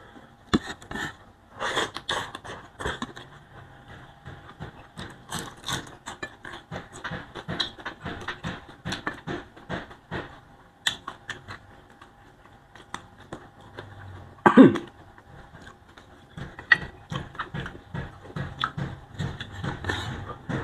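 Close-miked eating sounds: wet chewing and lip smacking of boiled leafy greens and rice eaten by hand, with many small irregular mouth clicks. One short, louder throat sound comes about two-thirds of the way through.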